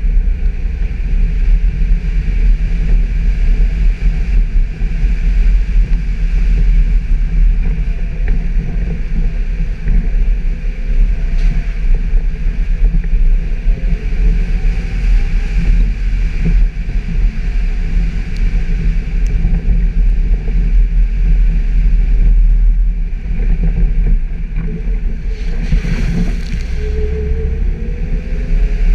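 Suzuki Jimny driving off-road: a steady, loud mix of engine and vehicle noise with a heavy low rumble, and a brief louder rush of noise near the end.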